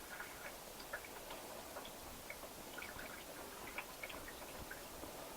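Faint, scattered light clicks and handling over a low hiss: the RC truck's metal body clips being pulled out by their paracord loops.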